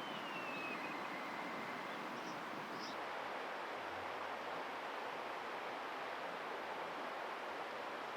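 Faint drawn-out falling whistle of a black kite at the start, over a steady rushing outdoor noise like wind; a couple of faint short high chirps follow a few seconds in.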